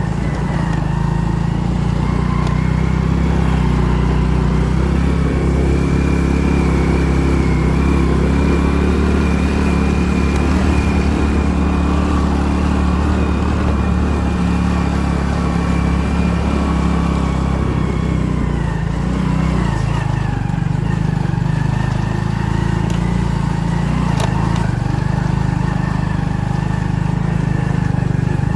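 A motor vehicle's engine running steadily under way, with a steady high whine above it that rises a little and falls back around the middle.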